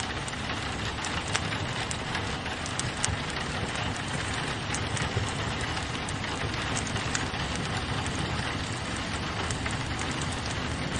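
Rain on a window mixed with a wood fire crackling in a fireplace: a steady rain hiss with many small sharp clicks and pops scattered through it.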